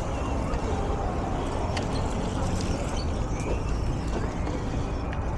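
Steady low rumble of wind buffeting a camera microphone on a moving bicycle, with a few scattered sharp clicks.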